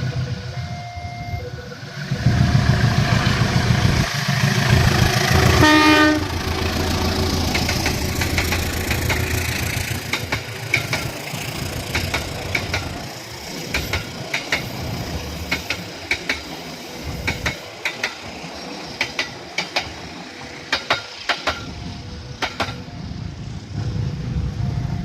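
A train passing through a level crossing. A heavy engine rumble builds for a few seconds, a short horn sounds about six seconds in, and then the wheels clack over the rail joints in quick clusters.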